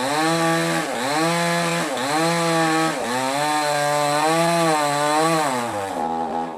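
Petrol mini chainsaw running at high revs while cutting wood. The engine speed dips and recovers about once a second, then drops to idle near the end.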